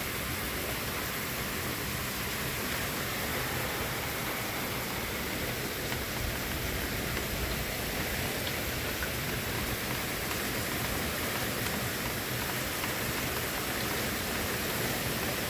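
Rain falling steadily during a thunderstorm: an even hiss with no change in strength.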